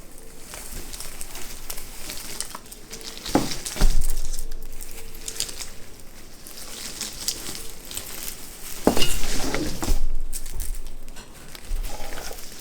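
Rustling and light clicking of a string of fairy lights being wound around a wreath, with a few louder knocks and rattles about three and a half seconds in and again around nine seconds.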